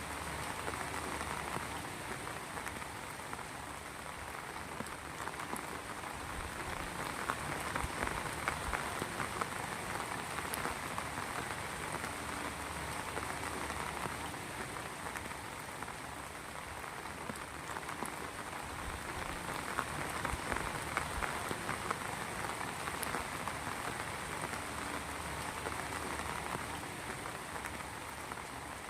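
Heavy rain falling steadily: a dense, even patter of drops that swells slightly twice and eases back.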